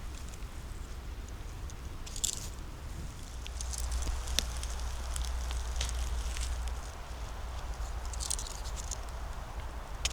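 Dry leaves and twigs crunching and crackling underfoot on the forest floor: a few scattered crackly steps and snaps over a low rumble.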